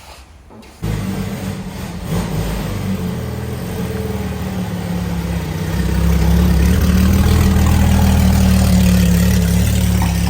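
Ferrari Testarossa's flat-12 engine, which comes in suddenly just under a second in and runs, growing louder about six seconds in as it is revved or put under load.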